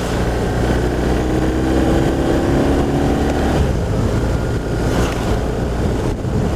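BMW R1200RT boxer-twin engine running on the move, its note rising for a couple of seconds as the bike picks up speed, with wind rushing over the microphone.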